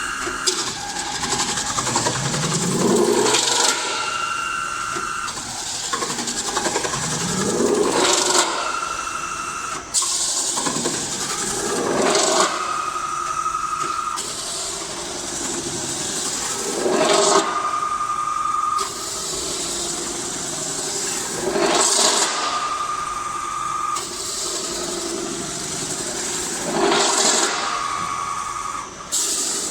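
CNC metal spinning machine running through repeated cycles about every four and a half seconds, each a short rising surge of hissing noise followed by a steady high whine lasting a second or so.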